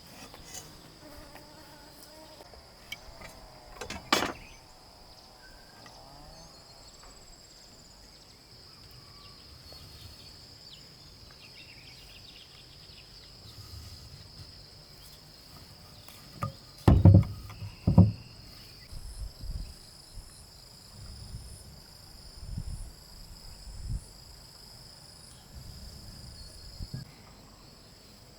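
Steady high-pitched insect chirring, with a sharp knock about four seconds in, two loud knocks a little past the middle, and softer thumps after them.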